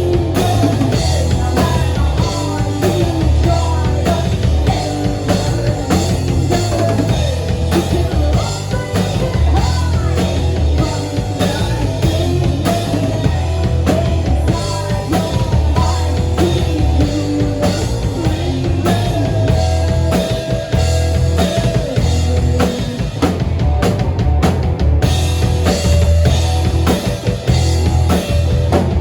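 Live rock band playing a song, with a drum kit keeping a steady, driving beat over a heavy bass line.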